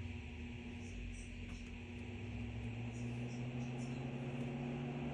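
Crane evaporative humidifier's fan motor running with a steady hum that slowly rises in pitch.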